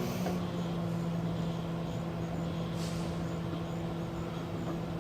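Sharp Carousel R-209EK microwave oven running, a steady electrical hum.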